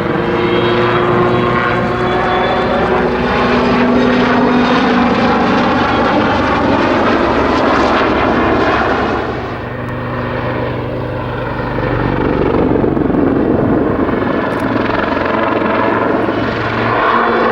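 Army Air Corps Westland Lynx helicopter flying a display manoeuvre, its rotor and twin turbine engines running loud and steady with slowly shifting pitch. The sound dips briefly about ten seconds in, then builds again.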